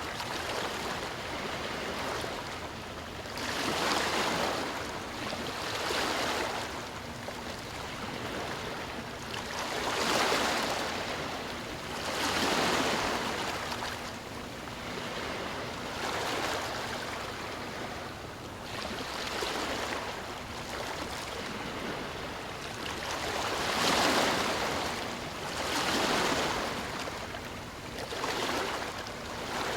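Ocean waves washing ashore, a steady rush of surf that swells as each wave breaks, about every two to three seconds.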